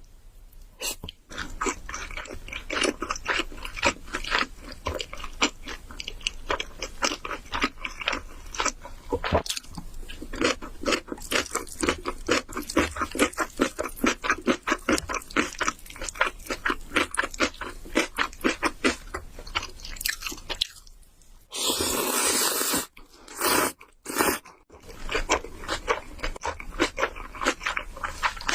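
Close-miked chewing of noodles: a long, fast run of wet mouth clicks and crunches. About two thirds of the way in, a loud slurp lasting about a second, followed by a couple of shorter slurps, before the chewing resumes.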